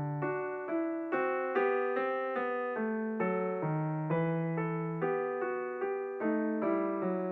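Background piano music: a steady run of plucked-sounding piano notes, a new note about every half second.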